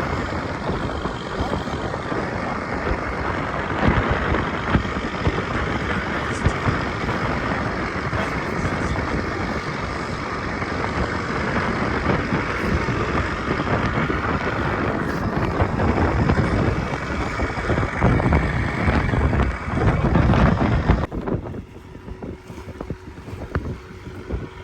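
Wind buffeting the microphone over the steady rush of a small wooden boat under way on open water. The noise drops sharply about three seconds before the end.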